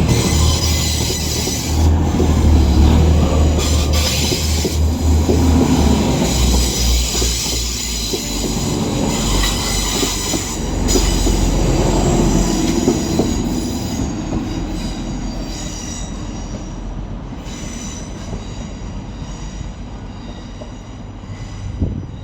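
Passenger train running along the station track, wheels squealing on the rails over a low rumble. The sound is loudest in the first half and fades steadily after that.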